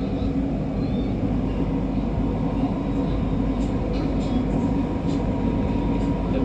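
MRT Kajang Line metro train running, with a steady rumble of wheels and running gear and a faint constant whine, as it approaches a station.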